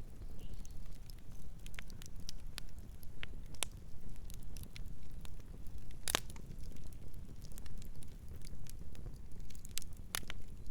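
Campfire burning: wood crackling with irregular sharp pops over a steady low rumble, one pop about six seconds in much louder than the rest.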